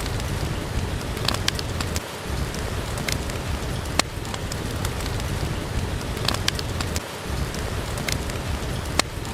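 Steady rain falling, with a few sharp crackles and pops from a wood fire scattered through it. The low rumble of the rain dips briefly twice.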